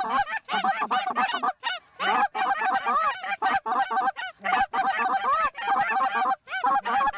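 Canada goose honks and clucks, many short calls in quick succession and overlapping, with a few brief pauses.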